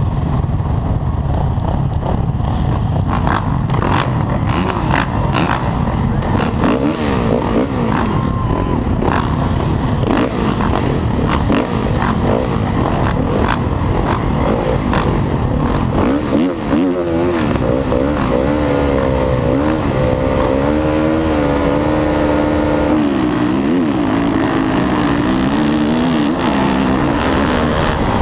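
Motocross bike engine revving up and down again and again, its pitch climbing and dropping, over a heavy low rumble. Several sharp knocks come in the first half.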